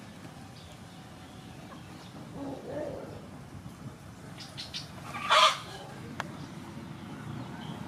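A bird calling, with one short loud squawk about five seconds in over a faint steady background.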